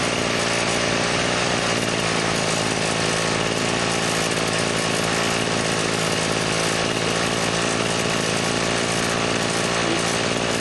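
Kubota brush cutter's small engine running steadily at a constant speed. It is a seized engine brought back to life with its scored piston and cylinder reused, so it runs on low compression.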